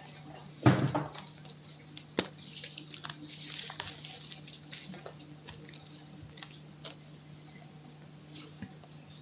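Close-up crunching and crumbling of chalk: a run of dry crackles and small clicks, with one heavier crunch about a second in and a sharp snap near two seconds.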